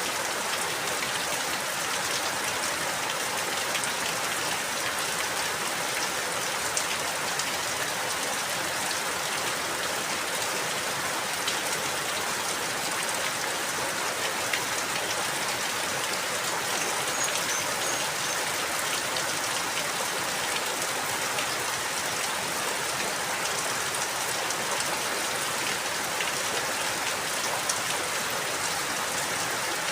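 Steady rain falling, with drops pattering on a surface.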